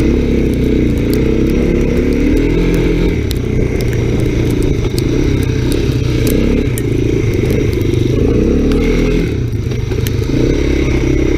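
Honda ATC 250SX three-wheeler engine running under way through snow, its revs rising and falling, with scattered ticks and scrapes over it.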